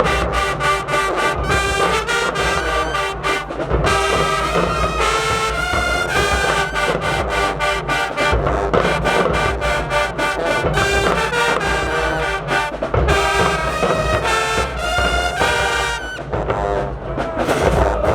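High school marching band playing loudly: a brass section of trombones and trumpets holding and moving through chords over a steady drum beat.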